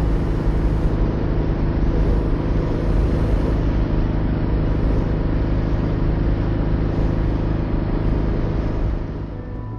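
1964 Porsche 356C's air-cooled flat-four engine running steadily at road speed, with tyre and wind noise, as the car drives along; it eases off slightly near the end.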